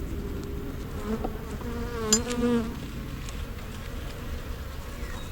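Honey bees buzzing around an open hive, single bees flying close past with a wavering hum that swells and fades. A sharp click about two seconds in.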